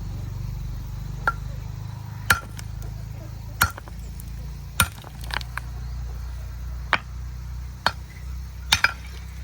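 Blade chopping sugarcane: about nine sharp, irregular chops roughly a second apart, the last two in quick succession, over a steady low hum.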